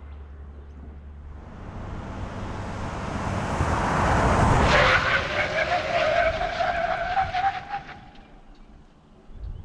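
Toyota HiLux's 2.8-litre turbo-diesel four-cylinder accelerating past. The sound swells to a peak about four to five seconds in, then a slightly rising whine carries on for about three seconds before the sound fades away.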